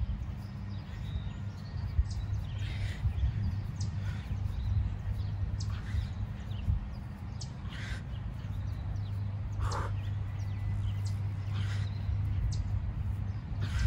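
Short bird calls every second or two over a steady low hum.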